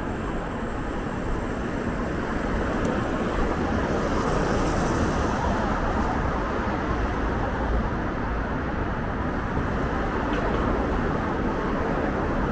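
Steady city road traffic noise, a continuous rush of passing vehicles.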